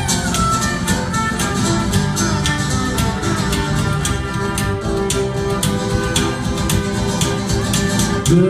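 Live country band playing an instrumental break: a lead melody line with held notes over rhythm guitar, bass and a steady drum beat.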